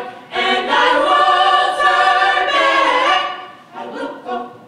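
Gospel choir singing a loud, held chord that fades away about three seconds in, followed by quieter singing near the end.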